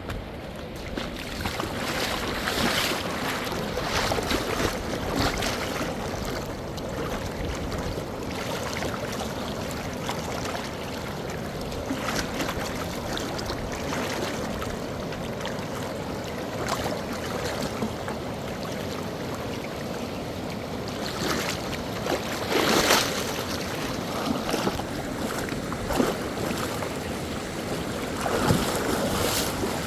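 Rushing mountain river water, a steady noise with a few brief louder surges, the strongest a little past the middle.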